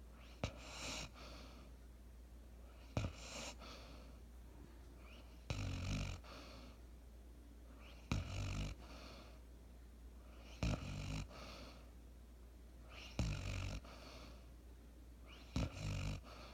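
Basset hound snoring in steady rhythm, seven snores about every two and a half seconds. Each opens with a short low rattle and trails off into a breathy exhale.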